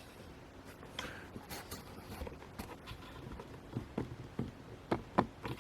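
Faint scattered clicks and small taps of handling noise over quiet room tone, a few sharper clicks in the second half.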